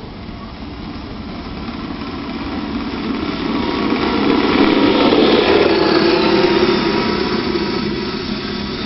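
Radio-controlled vehicle's motor running as it drives through snow, growing steadily louder to a peak about five to six seconds in, then fading as it moves away.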